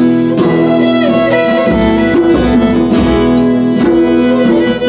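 Acoustic guitar strumming under a violin playing a melodic fill with held and sliding notes: an instrumental passage of a folk song, no singing.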